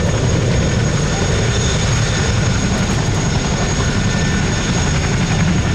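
Modified Boeing Stearman biplanes' 450 hp radial engines and propellers running steadily in a loud, fluttering drone as they fly in formation.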